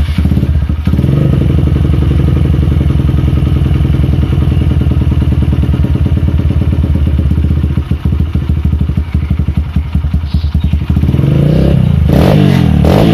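Kawasaki KLX 150's single-cylinder four-stroke engine breathing through an aftermarket bore-up exhaust. It is blipped briefly about a second in, idles steadily, then is revved up near the end and held higher.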